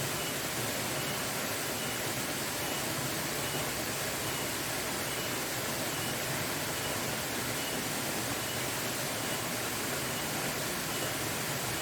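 Waterfall rushing: a steady, dense wash of falling water that does not change. A faint high peep repeats about every half second over it.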